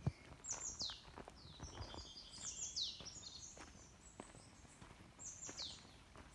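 Steady walking footsteps, a step about every two-thirds of a second, with a loud thud at the very start. Birds call throughout: a few high calls that sweep downward in pitch, and other chirps.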